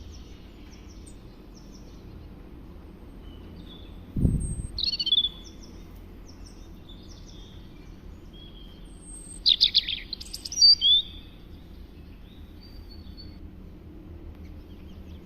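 Birds chirping and calling in short scattered phrases, with louder bursts of calls about four seconds in and again around ten seconds in. A single low thump sounds about four seconds in.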